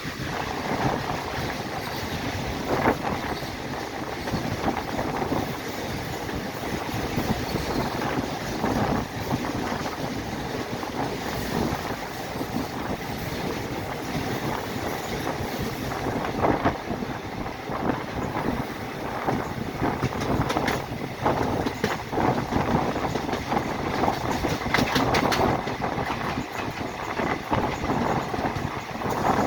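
Train running along the track: a continuous rumble of wheels on rails, with scattered sharp clicks.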